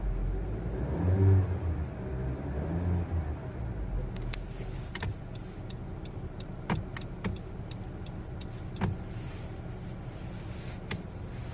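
A 2016 Honda Civic sedan's engine running, rising and falling in pitch briefly about a second in. After that come irregular sharp clicks over the steady running.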